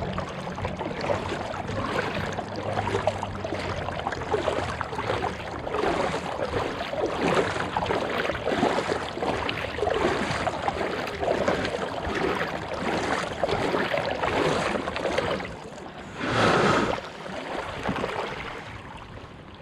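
Water splashing and lapping around a kayak on the water. About three-quarters of the way through there is a louder rush, and the sound fades near the end.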